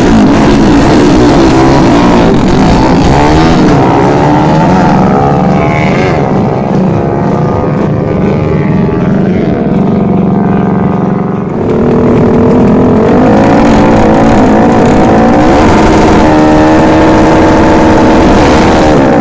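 Drag-racing motorcycle engines running loud, their pitch climbing as they accelerate hard. The sound dips briefly about eleven seconds in, then engine sound picks up again.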